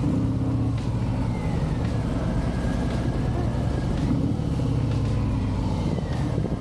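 Harley-Davidson Sport Glide's V-twin engine running steadily as the motorcycle is ridden.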